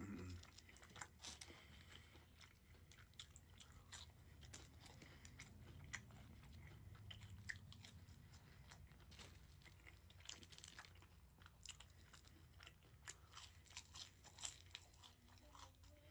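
Faint close-up chewing and crunching of food, with many irregular small crunches and mouth clicks.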